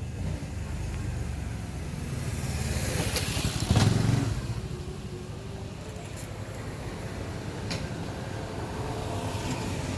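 A motor vehicle passing by on a street: it grows louder, peaks about four seconds in, then fades over a steady low traffic rumble.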